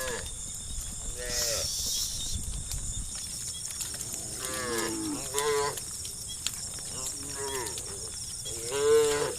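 A herd of cows mooing: about half a dozen separate calls, one after another, with the loudest near the end.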